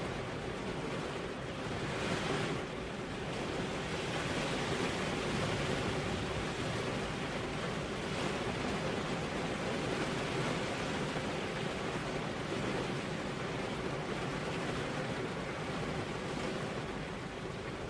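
Steady hiss of rain and wind, swelling briefly a couple of seconds in.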